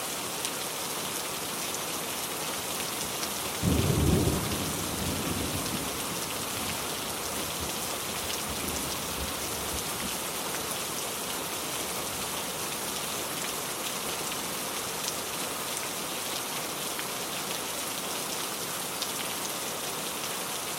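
Steady heavy rain hissing, with a clap of thunder about four seconds in that rumbles away over a couple of seconds.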